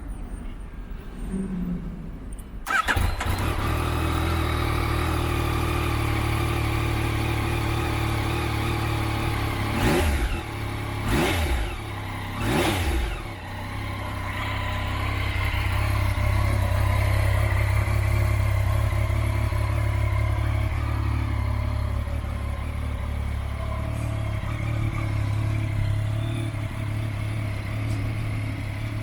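A 2019 Yamaha MT-09 Tracer 900's inline three-cylinder engine starts about three seconds in and idles, with three short blips of the throttle about ten to thirteen seconds in, then idles on steadily.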